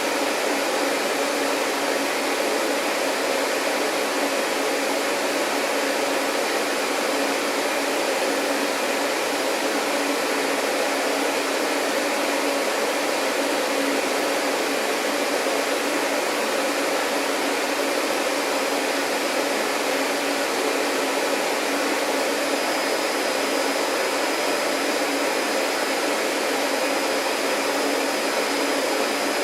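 Vacuum cleaner motor running steadily, an even rushing noise with a low hum in it; a thin high whine joins about three-quarters of the way through.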